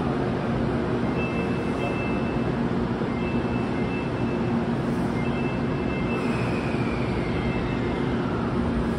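Steady drone of a standing N700 series shinkansen and the station around it, a continuous whooshing hum with no change in level. Faint short high tones come about every two seconds, and a faint falling whine runs through the second half.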